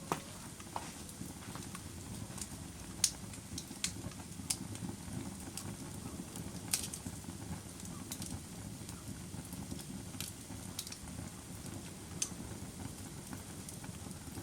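A fire crackling: a steady low rumble of flames with sharp pops at irregular intervals, the loudest about three seconds in.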